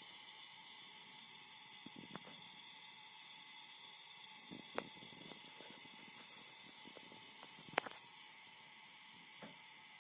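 Phoenix Contact QUINT-PS/1AC/12DC/15 12 V switching power supply running with a steady high-pitched hiss and a few faint steady tones. This is the strong hissing noise the owner reports in all four of his units, whether or not a load is connected. Two sharp clicks stand out, about halfway through and again near the end.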